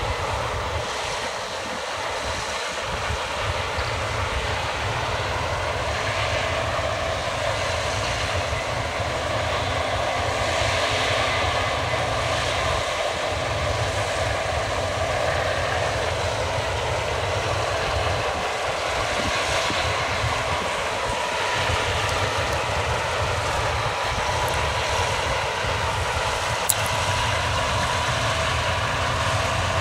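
Case combine harvester running steadily while harvesting barley, a constant machine drone with a steady whine on top. A single sharp click near the end.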